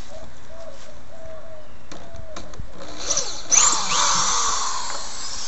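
Power drill backing a sheetrock screw out of a 2x10 wooden board: a few clicks, then the drill whirs for about two seconds starting about three seconds in.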